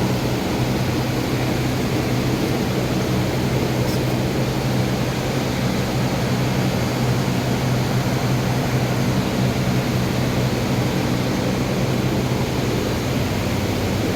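A steady mechanical hum with a low drone and an even hiss over it, unchanging throughout.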